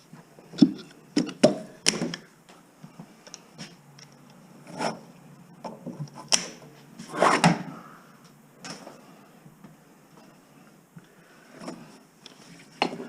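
Irregular knocks, clicks and scrapes of BX armoured cable being handled and pulled out of stripped walls, with a cluster of sharp knocks near the start and a longer rattling scrape about seven seconds in.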